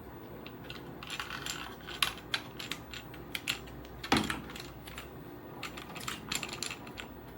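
Irregular small clicks and clinks of hard objects, with one louder knock about four seconds in.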